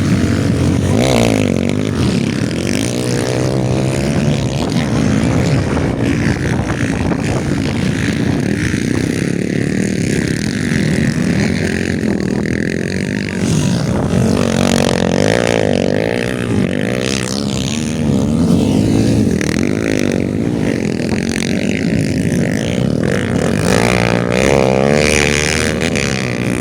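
Several motocross bike engines racing, revving up and down over and over as they accelerate and shift.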